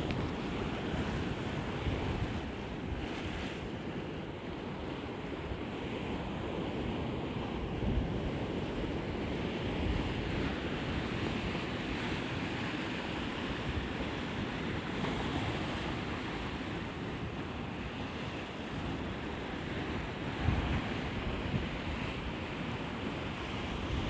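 Steady rush of ocean water, with wind or water buffeting on the microphone and a few brief low thumps.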